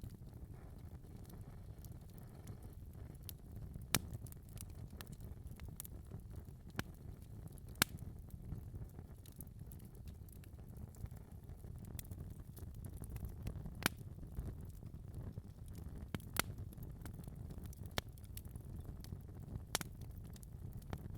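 Wood fire crackling in a fireplace: a low steady rumble of burning with scattered sharp pops every few seconds.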